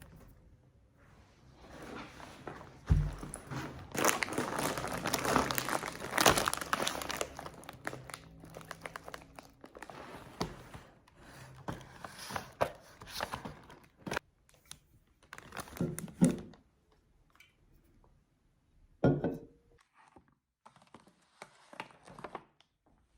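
Crinkling and rustling of handled material, with a dull thunk about three seconds in and a few sharp knocks later on, in a small room.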